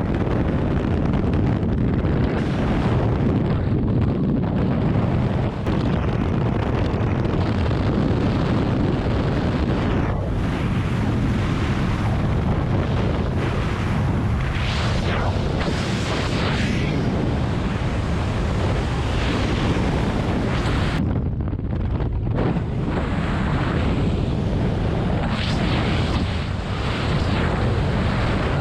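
Loud, steady rush of wind buffeting a skydiver's camera microphone, with no engine note standing out.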